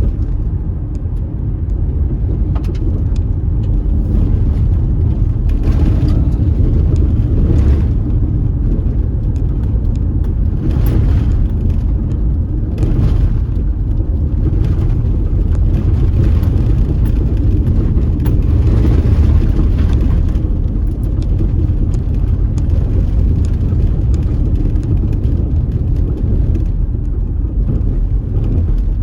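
A car driving along a road: a steady low rumble of engine and tyres, with a few brief louder swishes along the way.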